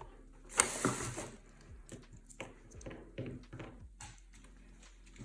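Small parts and tools handled on a workbench: a louder clattering rustle about half a second in, then a string of light clicks and taps.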